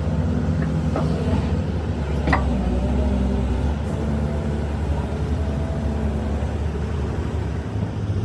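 A steady, low engine hum, with two short sharp knocks about one and two seconds in.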